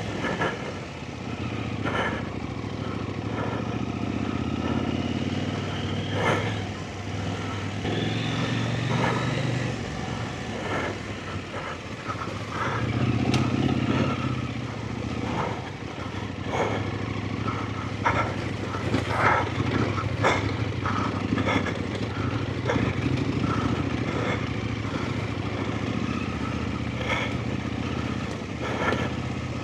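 Off-road motorcycle engine running at low revs, swelling and easing as the throttle is worked on a slippery trail, with frequent short knocks and clatters from the bike going over rough ground.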